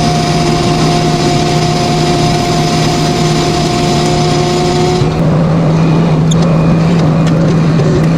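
A motor-driven machine running at a steady speed with a constant hum. About five seconds in, its higher tones drop away while the low hum carries on, and a few faint ticks follow.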